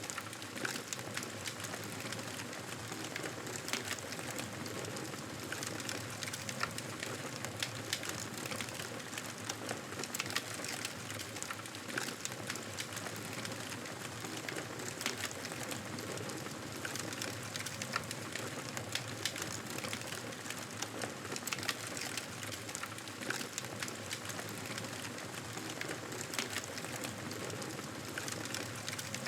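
Fireplace fire crackling steadily, with frequent small pops over an even hiss.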